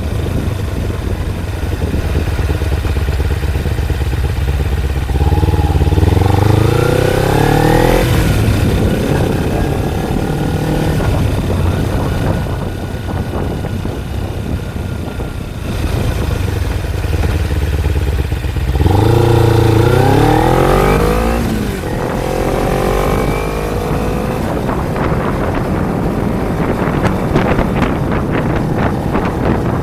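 Kawasaki Ninja 250's parallel-twin engine accelerating twice, its pitch climbing, dropping at each upshift and climbing again, between stretches of steady cruising. Wind noise on the microphone is heard throughout and turns to rapid buffeting near the end.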